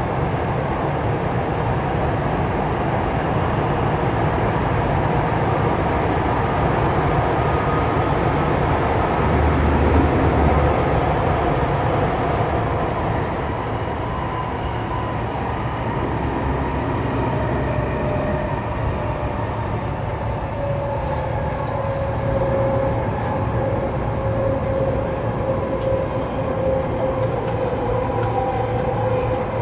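Saitama Rapid Railway 2000 series electric train running, heard from inside the car as a steady rumble of wheels and motors. About halfway through, a thin motor whine sets in and sinks slightly in pitch, as the train slows on the approach to the next station.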